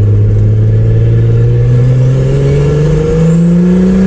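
Turbocharged Chevrolet Opala inline-six accelerating hard in one gear, heard from inside the cabin with the windows closed; the engine note rises steadily. A faint high whistle climbs near the end.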